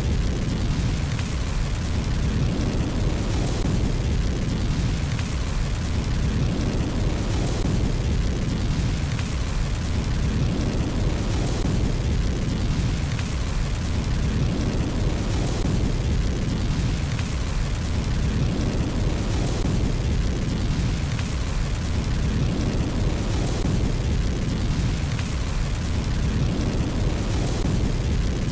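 Fire burning in a fireplace: a steady low roar of flames with sharp crackles and pops every second or two, the low roar swelling and easing every few seconds.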